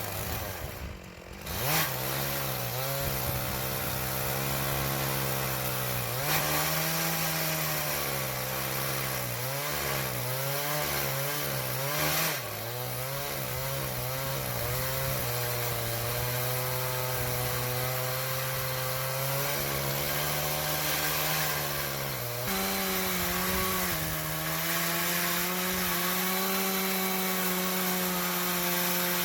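Chainsaw in an Alaskan chainsaw mill running under load, ripping lengthwise through a maple log to cut a slab. The engine note wavers with the load, dips briefly about a second in, and steps up slightly in pitch a little after twenty seconds.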